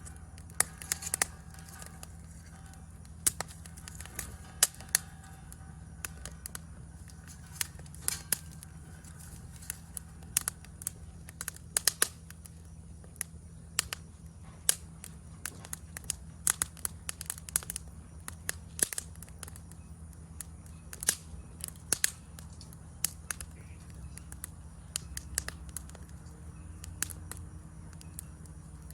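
Wood fire crackling, with irregular sharp snaps and pops, some much louder than others, over a steady low rumble.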